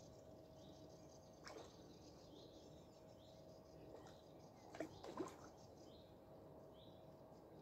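Quiet outdoor ambience in which a small bird repeats short high chirps about once or twice a second. A couple of brief louder sounds come about five seconds in.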